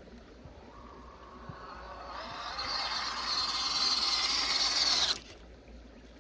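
WPL C24 RC crawler's electric motor and gearbox whining under throttle. It grows steadily louder for about four seconds, then cuts off abruptly.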